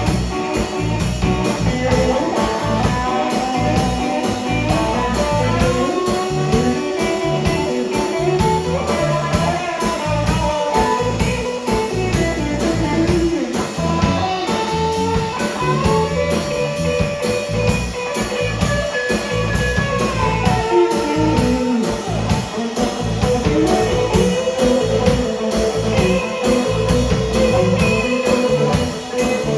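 Blues band playing an instrumental section: a lead guitar solo of held and bent notes over bass and drums.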